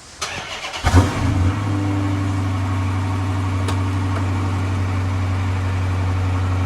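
2012 Dodge Charger R/T's 5.7-litre Hemi V8 cold-starting on its stock exhaust: the starter cranks briefly, the engine catches with a short flare about a second in, then settles into a steady idle.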